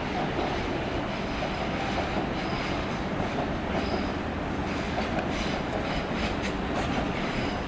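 Commuter train running through the station with a steady rumble, its wheels clicking over rail joints now and then and giving faint high squeals.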